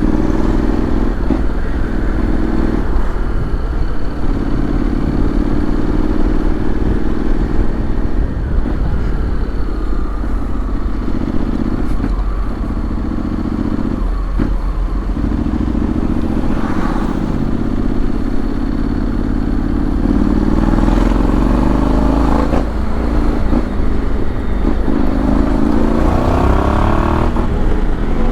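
Honda X-ADV 750's parallel-twin engine running while riding, its pitch rising and falling with speed and climbing several times under acceleration, over wind noise on the microphone.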